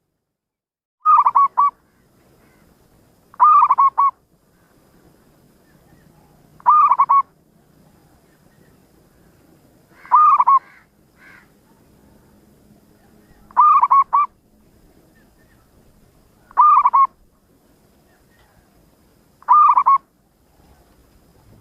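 Zebra dove (perkutut) cooing: a short call of two or three quick rolling notes, repeated seven times about every three seconds.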